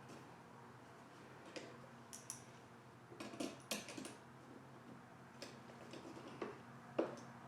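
Scattered light metallic clicks and clinks of hand tools and small fittings being handled while the throttle cable and fuel vent line are worked loose from a lawn tractor engine. A quick cluster of clicks comes about halfway through and the sharpest click comes near the end, over a faint steady hum.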